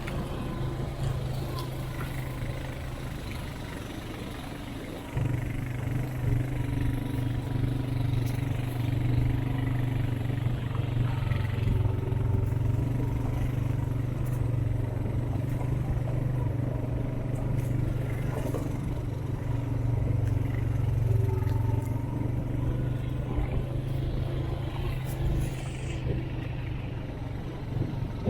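Off-road vehicle's engine running steadily as it drives along a wooded trail, getting louder about five seconds in as the throttle opens up.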